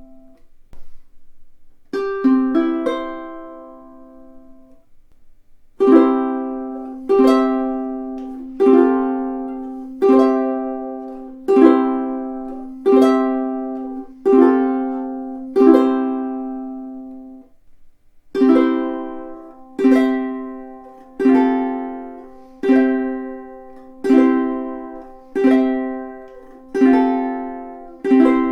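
Solid spruce-top, rosewood-bodied tenor ukulele played in simple chords, each chord strummed once and left to ring, about one every second and a half. There is a short break near the start and another about two-thirds of the way through.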